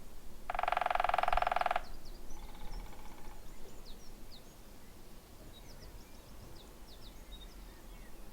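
Woodpecker drumming: one rapid, loud roll lasting a little over a second, then a shorter, fainter roll. Small birds chirp with quick, high, falling notes throughout.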